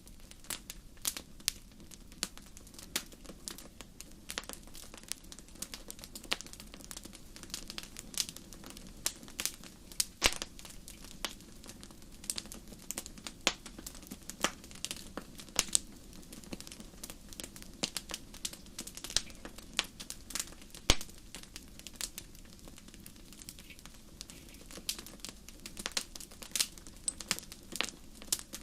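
Fireplace fire crackling: many irregular sharp pops and snaps over a low steady rush of flames.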